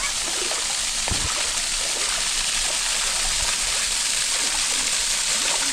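Steady rush of water from a small waterfall running low in the dry season.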